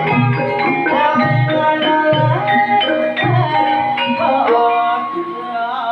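Banyumasan gamelan music accompanying an ebeg dance: struck, ringing mallet-instrument notes in a running pattern over regular low drum beats. A held, wavering note comes in about four and a half seconds in.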